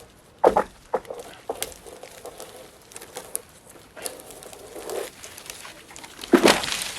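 Bone-dry standing-dead tree being brought down by hand: sharp cracks and snaps of the dead wood, with the loudest crash about six seconds in as it comes down.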